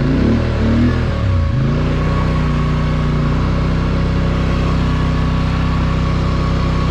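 Polaris Sportsman 850 High Lifter ATV's twin-cylinder engine revving up and dropping back in the first second and a half, then running at a steady speed.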